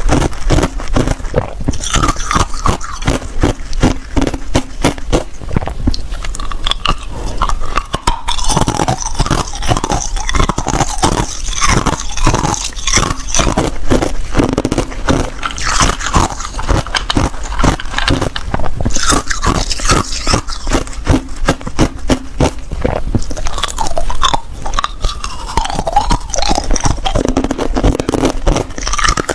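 Ice being bitten and chewed close to the microphone: a continuous run of loud, rapid, irregular crunches.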